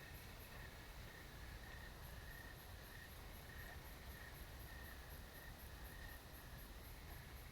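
Faint night insects chirping in a meadow: one high, fast, even pulsing and a lower, slower pulsing, over a steady low rumble.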